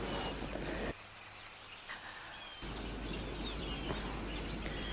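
Steady background ambience hiss with faint, scattered bird chirps. A low hum underneath drops out about a second in and comes back a little past halfway.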